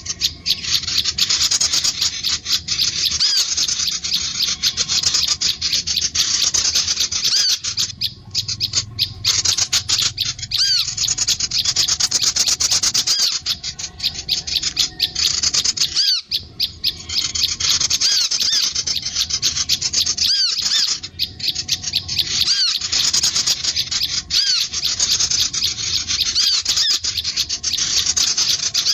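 Sunbird and prinia calls: a dense, near-continuous stream of rapid, high-pitched chattering notes with short arching chirps, broken only by a few brief pauses.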